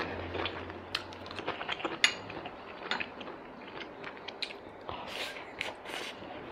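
Close-miked chewing of a mouthful of food: a string of irregular wet mouth clicks and lip smacks, the loudest about two seconds in, with a few short breathy hisses near the end.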